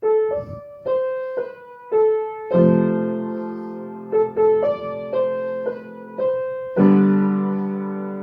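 Piano played with both hands and without sustain pedal: a right-hand melody of single notes, with left-hand chords struck about two and a half seconds in and again near seven seconds and held under the melody.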